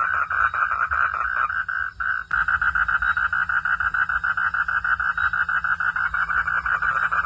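A chorus of frogs calling at night: a dense, rapid pulsing of about ten pulses a second that drops out briefly about two seconds in, then carries on.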